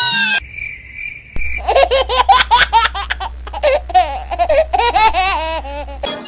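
High-pitched, child-like laughter in rapid repeated bursts over a steady low drone. A short steady high tone comes just before the laughter starts, about a second and a half in.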